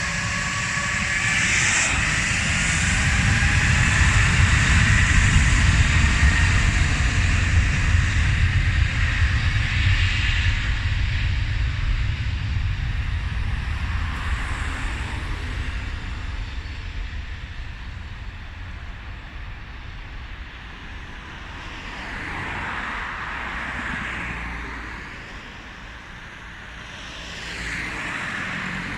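Jet airliner's engines passing close: a loud, deep rumble with a high whine over it, loudest about five seconds in, then fading steadily away.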